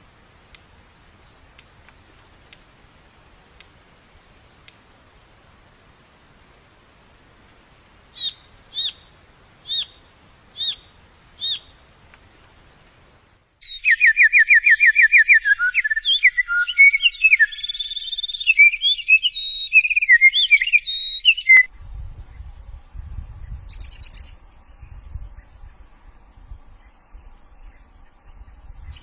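A series of birdsong recordings. First a steady high insect trill with a few ticks, joined by five short bird calls, then a loud, fast, varied bird song, then quieter scattered calls over a low rumble.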